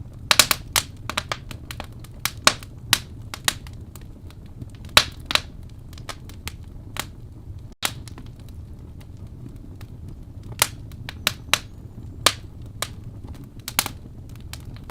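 Wood fire crackling in a fireplace: sharp pops and snaps at irregular intervals over a low, steady rumble of the burning logs. The sound cuts out for an instant about eight seconds in.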